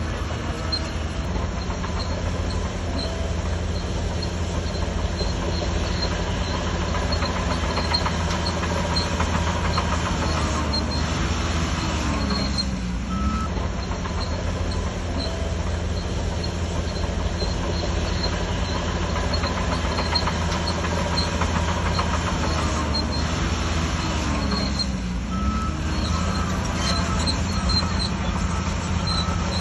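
Shantui DH17C3 bulldozer's diesel engine running steadily under work, its pitch dipping and recovering twice: near the middle and again near the end.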